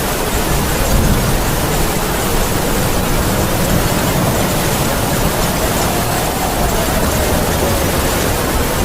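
Heavy rain falling steadily with wind howling, a faint moaning tone that rises slowly a little past the middle and sinks again.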